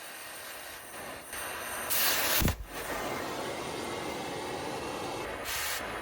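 Two short bursts of hissing compressed air over a steady background noise: the first about two seconds in, ending in a sharp thump, the second shorter near the end.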